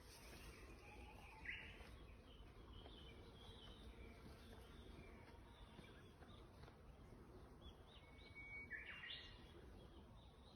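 Faint birds chirping and singing over a low outdoor background hum, with a louder call about a second and a half in and another near the end.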